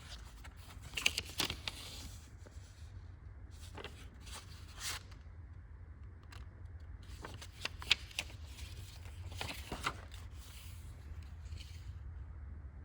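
Paper rustling and crackling in short bursts, as pages of a log book are handled and turned, four times a few seconds apart, over a steady low hum.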